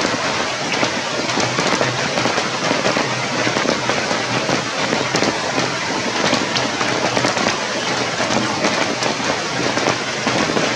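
Steady rain falling, an even hiss with many sharp drop ticks throughout.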